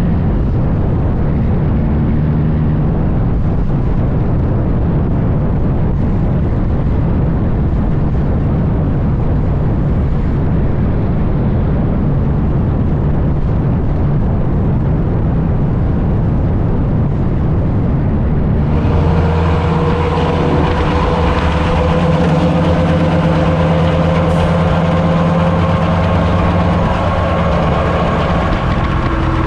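Heavy diesel truck engine running steadily under way on the highway. About two-thirds of the way through the sound changes abruptly to a brighter run with a steady whine over the engine.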